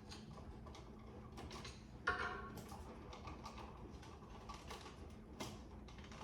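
Scattered light clicks and taps of a screwdriver, screws and a plastic electrical outlet being handled, with one sharper knock that rings briefly about two seconds in.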